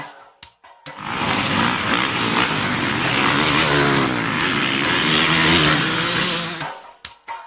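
Motocross bike engines revving up and down at racing speed, a loud dense blare that cuts in about a second in and stops near the end.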